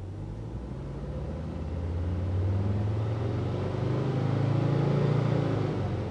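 Volvo C30's engine on its stock exhaust, accelerating in a roll-on pull, heard from inside the cabin. The engine note climbs steadily in pitch and grows louder.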